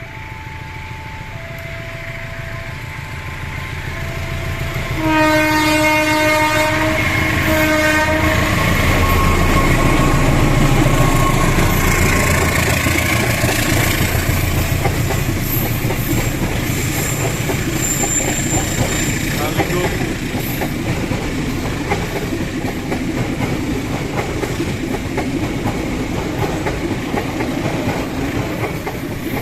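A level-crossing warning bell chimes two alternating tones. About five seconds in, a diesel locomotive's horn gives one long blast and then a short one. The Kamandaka passenger train then passes close by, with a heavy rumble and its wheels clacking over the rail joints.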